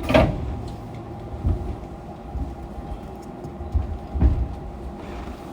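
Fukuoka City Subway 2000-series car with Hitachi GTO-VVVF inverter, slowing in the last seconds before stopping at a station. Just after the start there is a loud short burst as the inverter's falling braking tone ends, then the car's running noise with scattered low thuds and a faint steady tone.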